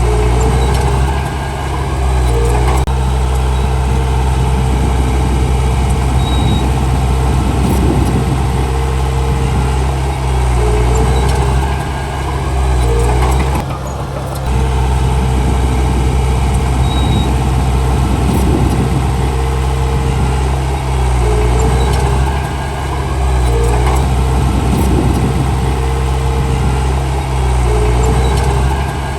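Heavy diesel engines of earthmoving machines at work, a bulldozer pushing soil with dump trucks. The engine sound runs steadily, swelling and dipping every few seconds, with a short break about halfway.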